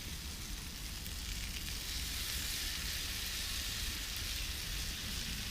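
Food sizzling steadily in a pan over a campfire, frying in butter, with an even hiss that swells slightly about two seconds in.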